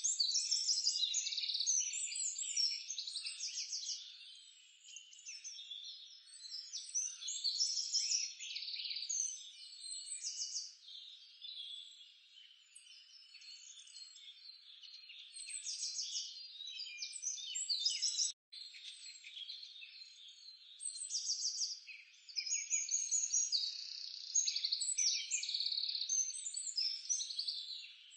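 Dense chorus of chirping animal calls, birds and frogs, rising and falling in loudness, with a brief gap about eighteen seconds in.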